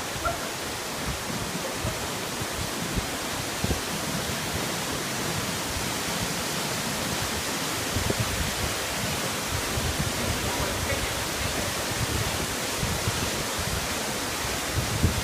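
Small forest waterfall: a steady, even rush of falling water, with a few brief low thumps.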